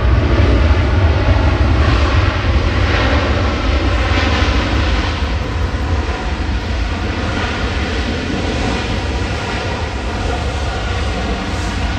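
Jet airliner engines running at takeoff power during a departure roll, a loud, steady rush with deep rumble that slowly fades as the aircraft moves away.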